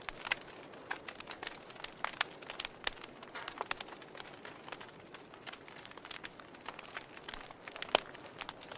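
Wood fire crackling in a fireplace: irregular snaps and pops over a soft steady hiss, with one sharper pop near the end.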